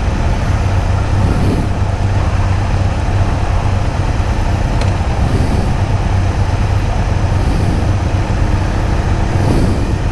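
Motorcycle engines running with a steady low hum as a group of bikes moves off, with a faint rising engine note near the end.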